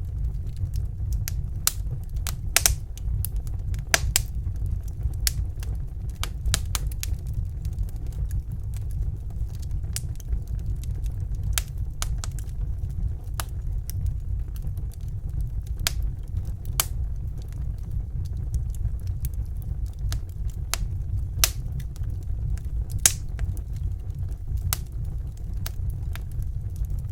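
Wood fire in a fireplace crackling, with irregular sharp pops and snaps, a few louder ones scattered through, over a steady low rumble.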